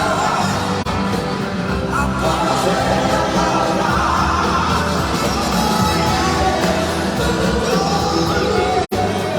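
Live rock band playing with singing, with a split-second dropout in the recording near the end.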